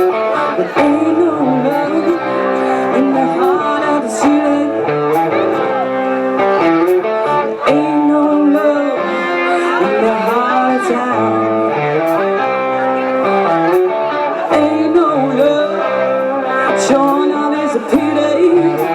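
Live rock band playing a slow blues-rock instrumental passage: an electric guitar lead with bending notes over sustained chords, with cymbal hits.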